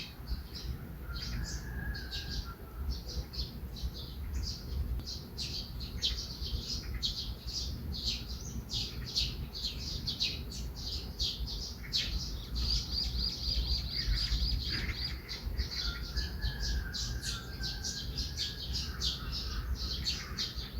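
Several small birds chirping and calling in a busy morning chorus: a rapid run of short high chirps, a lower warbling trill about a second in and again near the end, and a sustained high whistled note partway through, over a low steady rumble.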